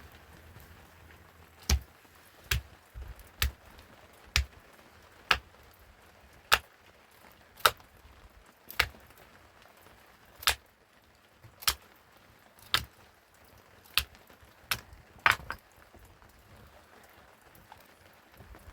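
A run of about fourteen sharp blows, roughly one a second, each a hard strike with a low thud. The run stops a few seconds before the end.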